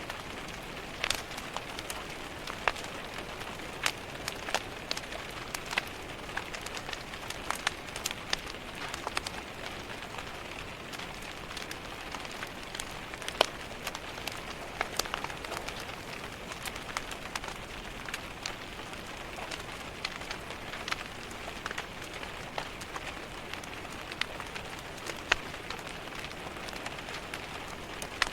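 Steady rain against a window, mixed with irregular sharp crackles and pops from a fireplace fire.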